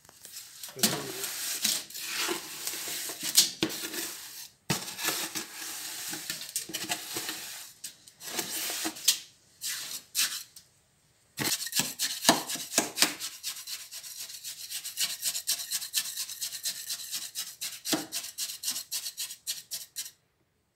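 Refractory cement being packed into a steel furnace shell: a tool scrapes and rubs through the stiff mix for about ten seconds, then, after a brief pause, a quick run of sharp taps, several a second, as the mix is compacted.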